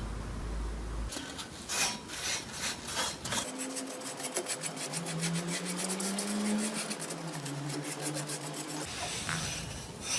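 Rasping back-and-forth strokes of a hand file or abrasive being rubbed over the knife. The strokes are spaced at first, then run rapidly and evenly through the middle.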